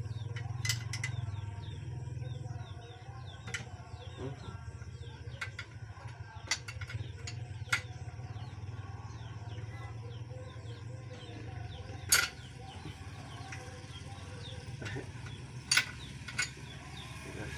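Scattered sharp metal clinks and knocks of tools on engine parts during an engine teardown, the loudest about twelve seconds in, over a steady low hum. Birds chirp faintly throughout.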